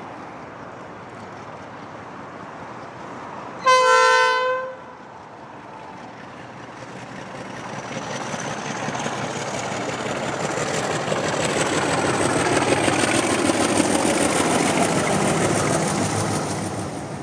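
A train horn sounds one blast of about a second, a chord of several tones. Then a train approaches and passes, its running noise building and then easing off, with a thin high whine slowly rising in pitch.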